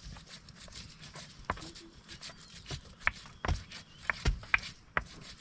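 Irregular sharp knocks and clicks, a few a second, the loudest about three to four and a half seconds in.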